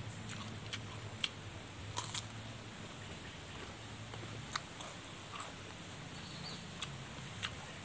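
A person chewing and biting into a small raw green vegetable, with scattered short sharp crunches and mouth clicks.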